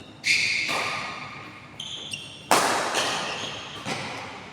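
Badminton rally: sharp racket hits on the shuttlecock, three of them, the first two close together and the third about two seconds later, each ringing out in a large hall, with short high squeaks between them.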